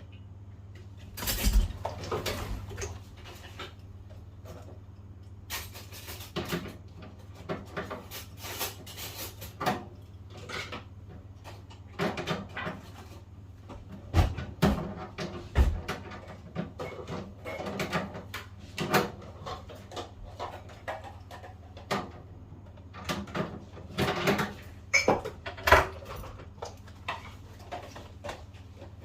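Irregular clicks, knocks and rattles of hands and tools working on a gas combi boiler's casing and wiring, with a few louder knocks, over a steady low hum.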